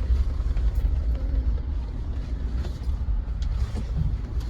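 Jeep driving on a rough dirt trail: a steady low rumble from the engine and tyres, with a few light knocks and rattles scattered through it.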